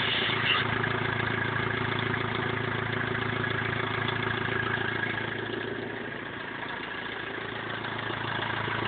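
BMW E46 320d's 150 hp four-cylinder diesel idling steadily, warmed up after an overhaul that followed failed swirl flaps. It runs a little quieter for a few seconds past the middle, then comes back up near the end.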